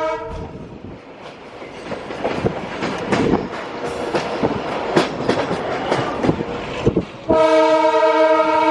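A diesel-hauled train running, with irregular clattering of its wheels on the rails, then a loud, steady diesel locomotive horn blast starting near the end.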